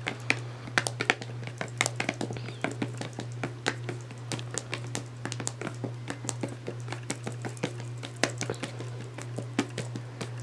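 Irregular small clicks and taps of plastic makeup palettes being handled and knocked about, over a steady low hum.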